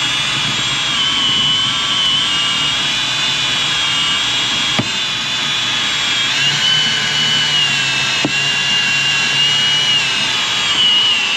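Drill-driven windshield-removal winder reeling in the cutting line through the windshield's urethane: a steady high whine that drops slightly in pitch around the middle and rises again near the end.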